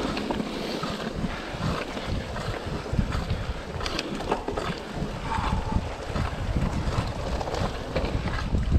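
Wind buffeting the microphone during a bike ride, with scattered clicks and rattles from the bike over rough ground.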